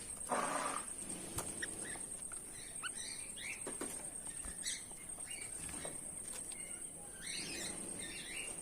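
Finches giving short scattered chirps and twitters, with a brief rustle about half a second in. A steady high-pitched whine runs underneath.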